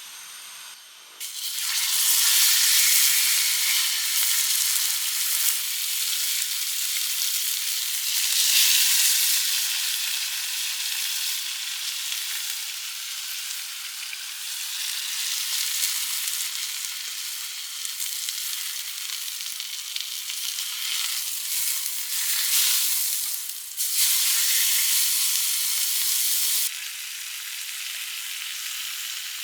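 Steak sizzling and frying in a hot pan: a loud, steady hiss that swells and eases, with abrupt drops in level twice near the end.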